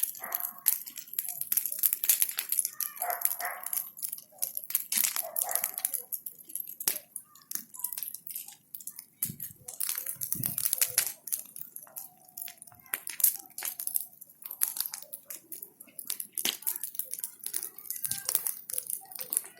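Bonfire of branches crackling and popping with dense, irregular snaps, with a few short calls heard over it.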